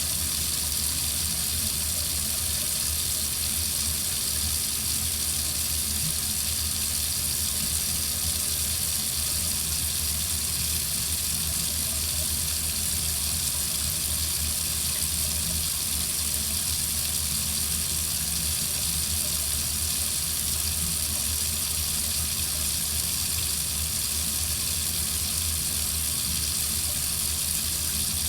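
Water running steadily from a faucet into a sink, a constant hiss with no change.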